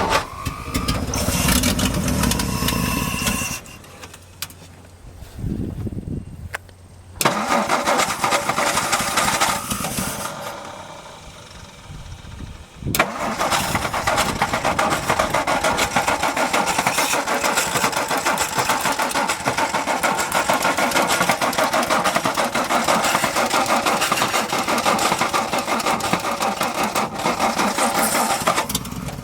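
1962 Ford F-350's engine cranked on the starter in several tries with pauses between. It catches about 13 seconds in and runs steadily, fed by gasoline poured into the carburetor, easing off near the end.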